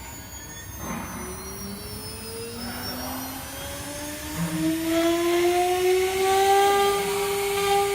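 Spindle motor of a 6090 stone CNC router spinning up: a whine rising steadily in pitch and growing louder, levelling off at full speed about six seconds in.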